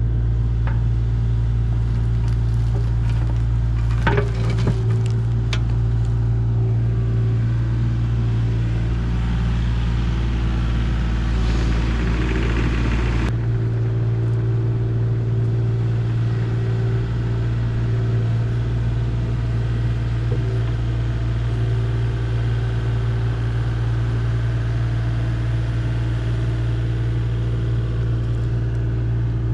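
Kubota excavator's diesel engine running steadily under work. A few sharp knocks come about four to six seconds in, and a hiss builds and then cuts off suddenly about thirteen seconds in.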